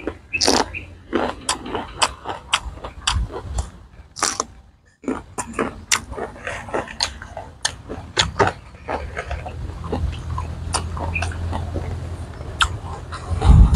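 Crisp raw vegetables being bitten and chewed close to the microphone: a string of sharp crunches and wet chewing, breaking off briefly about five seconds in.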